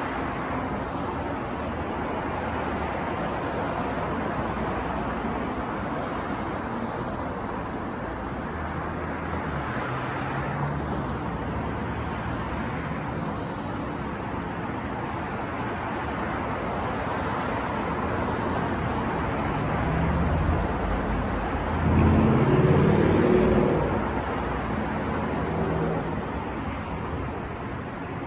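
City street traffic noise: a steady wash of passing cars, with one louder, deeper engine going by about three-quarters of the way through.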